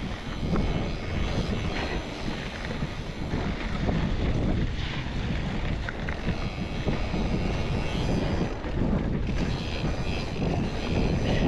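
Wind buffeting the microphone in a steady, uneven low rumble, with the rush of a mountain bike rolling over dirt and rock.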